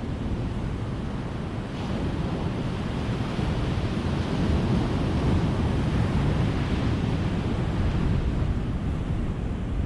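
Ocean surf: a continuous rush of waves breaking and washing on the shore, swelling about two seconds in and easing off near the end.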